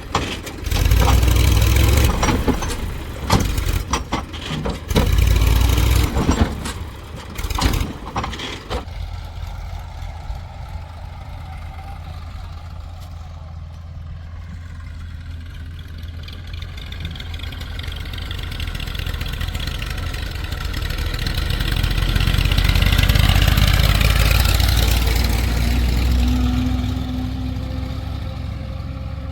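Diesel engine running, with loud irregular knocks and clatter over roughly the first nine seconds. The engine then runs steadily, grows louder with its pitch shifting about two-thirds of the way through, and eases off again.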